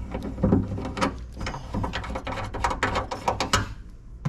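Small metal hardware clattering and clicking as screws and bolts are rummaged through by hand, a quick irregular run of clicks that thins out near the end.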